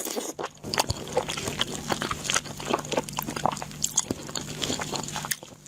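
A person chewing food close to the microphone, with many short, irregular wet mouth clicks and crunches.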